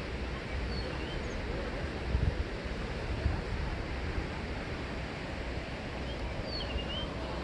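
Ocean surf washing steadily, with wind rumbling on the microphone in gusts. A few short, high chirps from a small bird come about a second in and again near the end.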